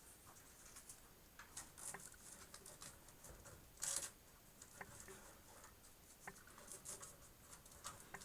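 Faint handling noise: scattered small rustles and clicks of hands working Velcro cable ties and cables, with one louder rustle about four seconds in.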